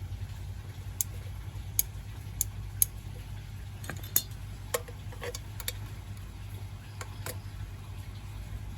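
About ten short, sharp clicks and clinks of small hard objects at irregular intervals, over a low steady hum.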